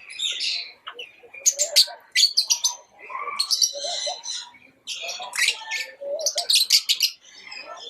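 Pet lovebirds chirping in quick bursts of high, sharp chirps, with short pauses between bursts.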